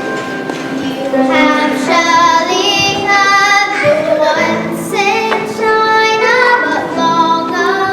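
Children singing a musical-theatre song over instrumental accompaniment; the voices come in about a second in over held instrumental notes.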